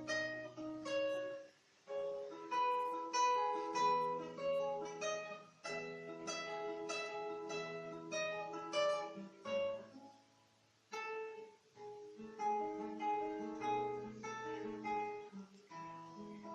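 Solo classical guitar played fingerstyle: plucked melody notes and arpeggios over a bass line, with a brief pause about ten seconds in.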